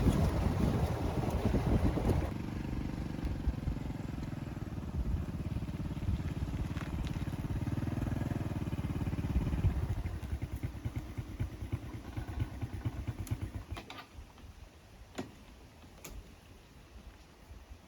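A vehicle engine running, loudest in the first two seconds, then steadier and quieter, fading out from about ten seconds in. A few faint clicks and knocks follow.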